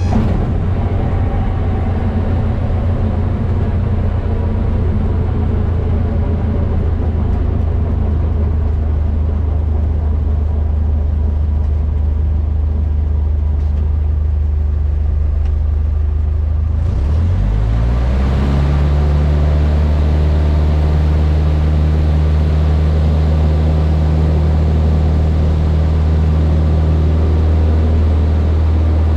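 Cessna 152's four-cylinder Lycoming engine and propeller running at a steady drone. About 17 seconds in, the pitch rises and the sound grows brighter and a little louder as power is added, then holds at the higher setting.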